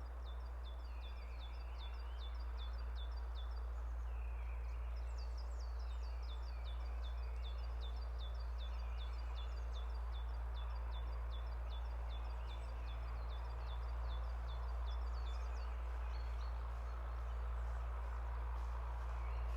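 Forest birds chirping: long runs of short, high, falling notes, about two or three a second, pausing briefly about four seconds in and thinning out near the end, over a steady low rumble.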